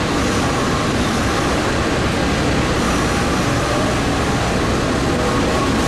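Passenger train running: a steady, loud rumble with rail noise that does not let up.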